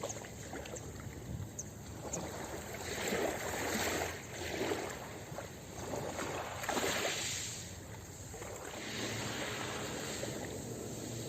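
Ocean waves washing onto a beach, the surf swelling and easing in slow surges a few seconds apart.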